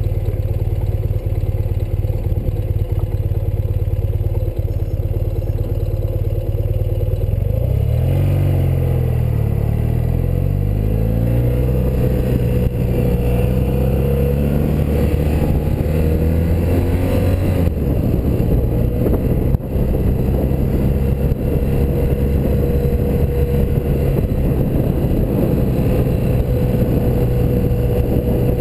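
A BMW R100RS air-cooled flat-twin engine heard from the moving motorcycle, running at a steady note. About eight seconds in it accelerates, its note climbing for several seconds, then it changes note around eighteen seconds in and settles into a steady cruise.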